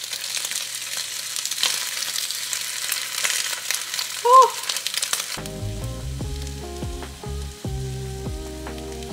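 Egg-coated kimbap slices sizzling and crackling in oil in a frying pan as they are turned with wooden chopsticks, with a short squeak about four seconds in. The frying cuts off suddenly about five seconds in, and background music with a bass line takes over.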